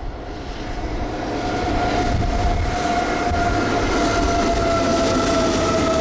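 Train passing close by, its rumble growing louder over the first two seconds, with a steady high tone and a fainter higher one that sink slightly in pitch.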